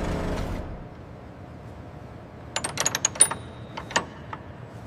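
Hoist motor humming steadily as the load is lowered, dying away within the first second. Then a quick run of light metallic clinks and ticks from the lifting rigging about two and a half seconds in, and a few single clicks after.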